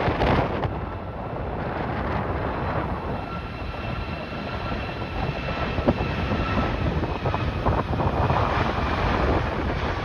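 Strong gusty wind buffeting the microphone, with the faint steady whine of a jet airliner's engines heard through it for several seconds in the middle.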